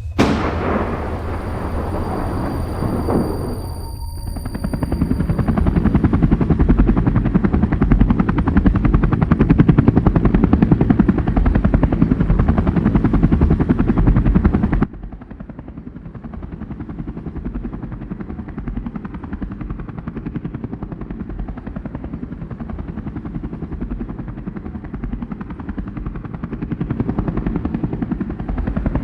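Helicopter rotor chopping fast and loud, opening with a sudden hit that fades over a few seconds. About halfway through it drops abruptly to a quieter level and keeps chopping.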